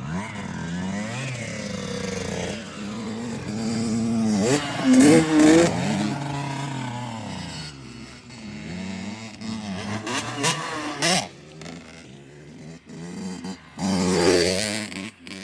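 Dirt bike engine revving up and down in repeated surges, loudest about five seconds in, with another surge near the end.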